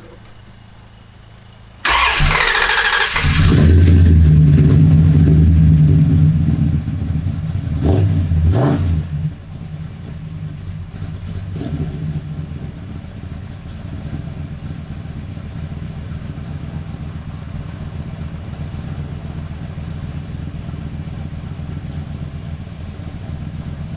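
Chrysler 400 cubic-inch big-block V8 cranked by the starter for about a second, catching and revving hard for several seconds with a couple of blips near the end of that, then settling to a steady idle.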